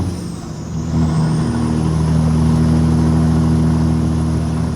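Semi truck's Cummins diesel engine pulling under load. Its sound dips for under a second near the start, then comes back and runs steadily.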